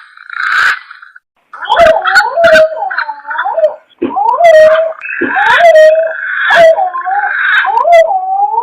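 Punai jawa green pigeon call used as a hunting lure: mellow whistled notes that rise, hold and waver, repeated in phrases and mixed with hoarse, hissing rasps. There is a brief pause about a second in and another near the middle.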